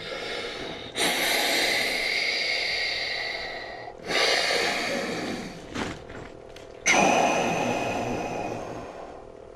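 A man breathing hard against the cold of an ice bath: three long, forceful breaths, each starting sharply and fading over two to three seconds, with short pauses between.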